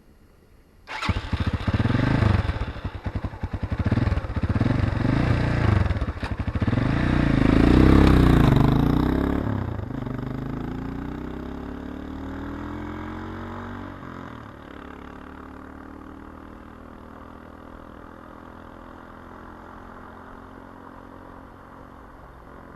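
Irbis Garpia 250 single-cylinder motorcycle exhaust, coming in suddenly about a second in and revved in a series of quick blips, then one longer, louder rev. After it the sound drops away gradually to a steadier, quieter engine note.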